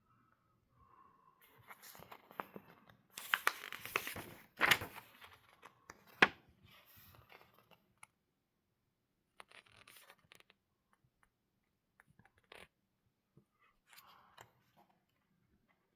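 Paper rustling and crinkling in irregular bursts, loudest a few seconds in, with a few sharper crackles and quieter rustles after.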